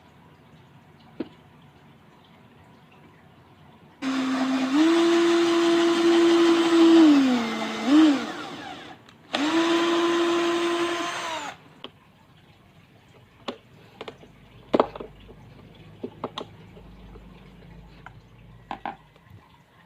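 Electric drill motor running in two bursts of a few seconds each. In the first burst the whine rises in pitch, then drops and stops. The second burst runs steadily and winds down. A scatter of light knocks and clicks follows.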